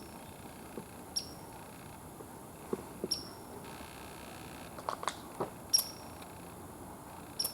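A small animal's single high chirp, repeated four times about every two seconds, over quiet woodland background, with a few soft footfalls or twig snaps in the middle.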